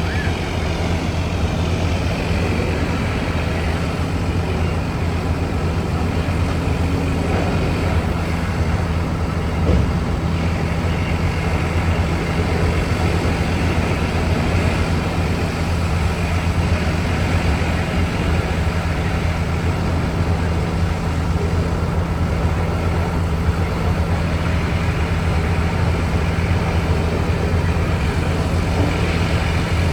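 Log truck's diesel engine running at a steady drone with road noise, and one short knock about ten seconds in.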